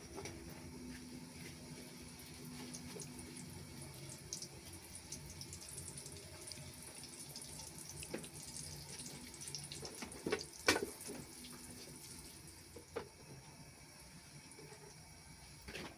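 Water running from a tap into a sink, with a few knocks and clunks around ten seconds in, the loudest about eleven seconds in, and two more later.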